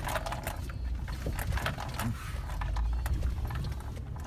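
Pickup truck rolling slowly across a small farm bridge: irregular clattering knocks as the tyres go over the deck, over the low rumble of the engine.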